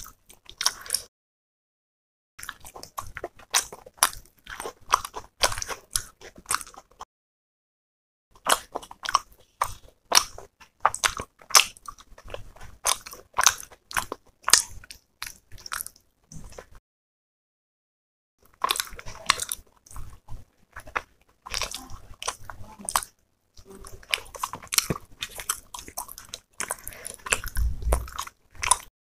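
Close-miked ASMR eating of chicken masala curry and roti by hand: chewing and biting in dense runs of clicky mouth sounds, broken by a few brief silent pauses.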